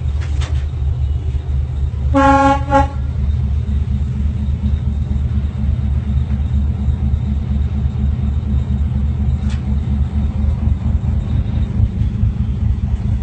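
A single short blast of a train horn, about two seconds in, over the steady low rumble of the locomotive's diesel engine.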